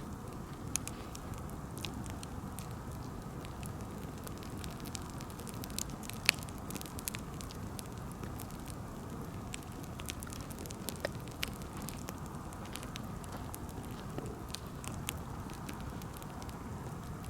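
Wood bonfire crackling and popping, with irregular sharp snaps over a steady low rumble of the flames and one louder pop about six seconds in.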